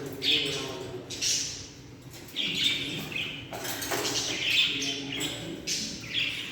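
Parrots calling in short, high-pitched bursts about once a second.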